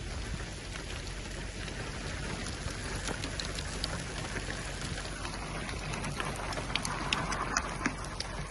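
Rain falling steadily, with scattered sharp drops hitting close by that grow thicker partway through as the storm's rain picks up.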